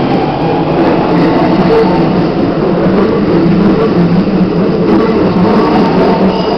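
Electric commuter train passing close by, a steady loud rumble of wheels on the rails and running gear that holds level throughout.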